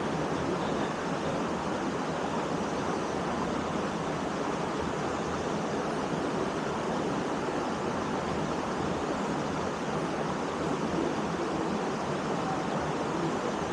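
Waterfall rushing with a steady, unbroken sound of falling water.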